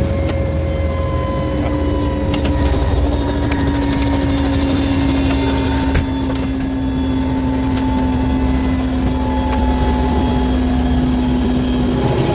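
Helicopter engine and rotor noise, steady and loud, with its engine tones drifting slowly lower in pitch.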